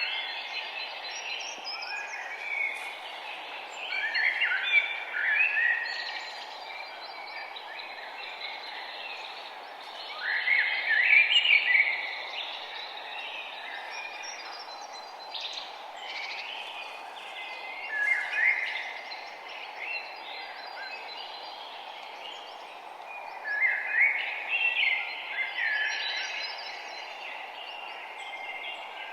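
Songbirds singing, with short song phrases every few seconds that are loudest about a third of the way in, over a steady low hiss of background noise.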